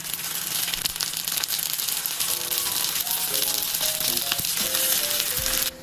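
Rice-paper-wrapped tofu rolls sizzling and crackling as they fry in a pan, the sizzle cutting off suddenly near the end. Background music with a light melody comes in about two seconds in.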